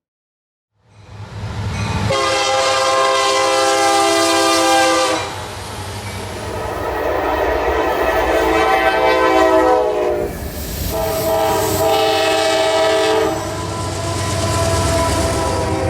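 Diesel freight locomotive's multi-chime air horn sounding a series of long blasts, with short breaks between them, over the low rumble of the locomotive and train. The sound comes in about a second in, after a brief silence.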